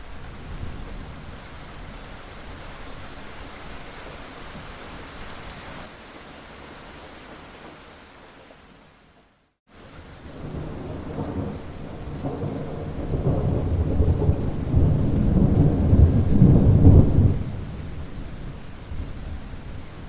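Steady rain falling, which fades out to a moment of silence about halfway through and comes back in. Then a long, low roll of thunder swells up, rumbles for several seconds, and dies away near the end.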